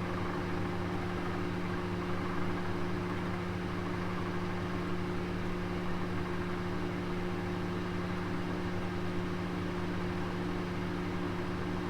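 Oven running: a steady low hum made of a few constant tones, with an even whirring hiss over it, unchanging throughout.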